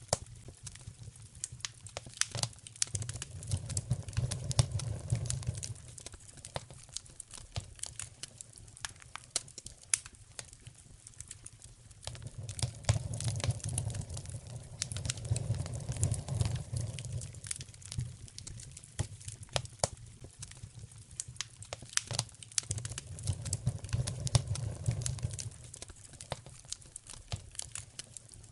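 Wood fire crackling, with a steady stream of sharp pops and snaps. A low rumble swells up and fades three times.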